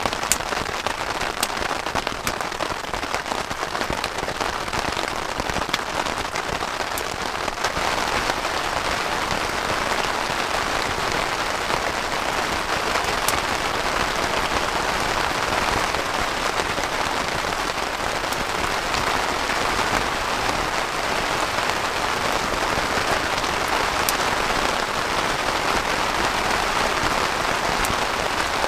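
Heavy rain falling steadily, with scattered sharp drop ticks in the first few seconds; it thickens and grows a little louder about eight seconds in.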